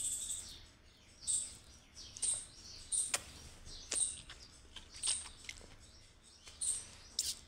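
A small bird chirping repeatedly, short high-pitched chirps coming about once a second.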